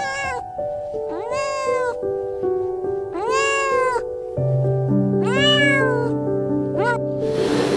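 A cat meowing five times, each call rising then falling in pitch: three long meows between a short one at the start and a short one near the end. A brief hiss-like rush of noise follows the last meow, over soft piano music.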